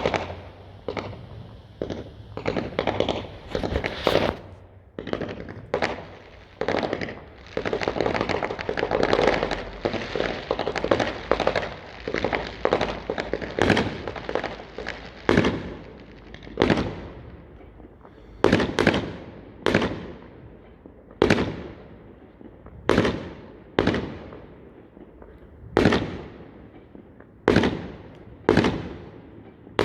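Fireworks going off: a run of bangs with a dense stretch of crackling around a third of the way in, then single bangs at a steady pace, roughly every second and a half, each trailing off.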